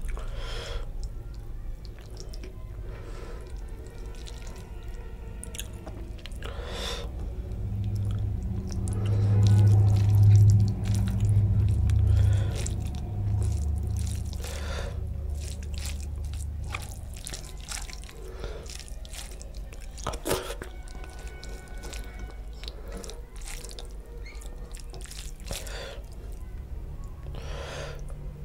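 Close-miked wet chewing and squishing of rice and fish curry eaten by hand, with many short lip smacks and clicks. A loud low hum swells for several seconds in the middle.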